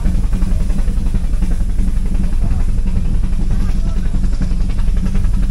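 Brienz Rothorn Bahn cog railway train running uphill, heard from the carriage: a steady, loud low rumble with fast, continuous rattling and clatter.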